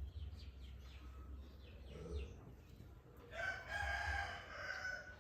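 A rooster crows once, starting a little past halfway and lasting about a second and a half, the loudest sound here. Small birds chirp in short calls before it.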